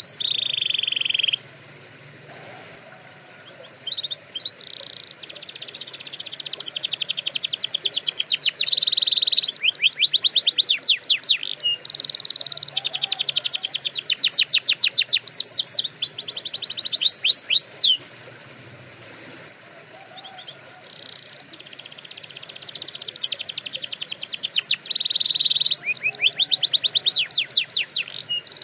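Canary singing: fast trills of rapidly repeated sweeping notes, one phrase running into the next, with two short lulls, just after the start and about two-thirds of the way through.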